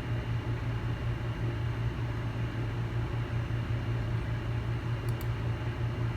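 Steady low hum with an even hiss, like a fan or small motor running, with two faint ticks about five seconds in.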